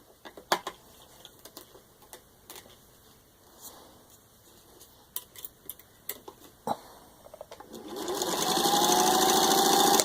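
A few scattered light clicks and knocks, then nearly eight seconds in a Singer 15-91 sewing machine starts up and speeds to a fast, loud run, stitching through four layers of vinyl upholstery, its pitch rising as it gains speed.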